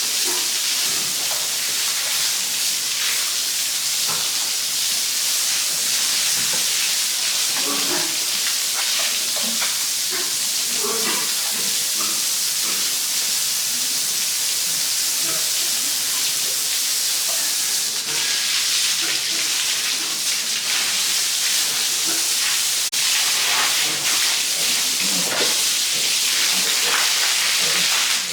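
A steady hissing noise, strongest in the high range, with scattered faint knocks and small clatters beneath it.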